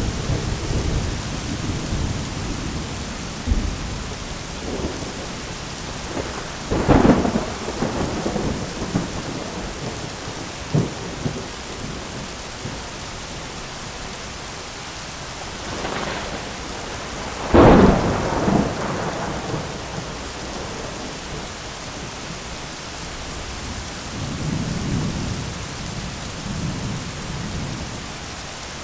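Thunderstorm: steady rain with low rolling thunder. Two sharp thunder cracks come about seven seconds in and again about seventeen seconds in, the second the loudest.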